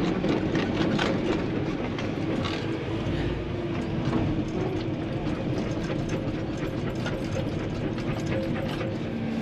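Tracked excavator travelling: the engine runs steadily under a rapid, irregular clatter of clicks and knocks from the tracks, including the noise of a track roller that is due to be changed.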